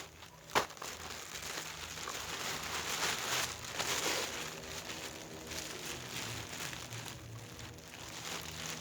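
A small plastic bag crinkling and rustling as things are packed into it, with a sharp click about half a second in.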